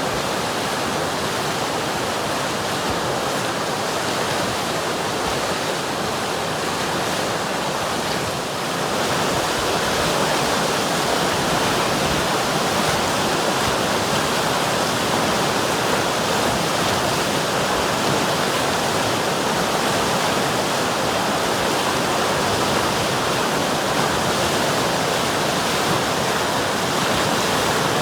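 River water flowing and rushing, a steady even noise that gets slightly louder about nine seconds in.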